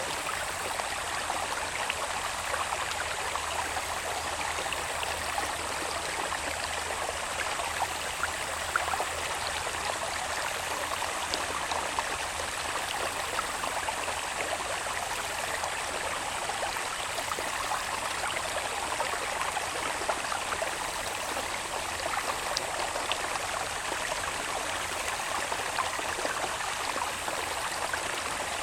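Water babbling steadily along a small irrigation channel flowing down from the hills, with small splashing ticks. A thin, steady high-pitched insect drone runs underneath.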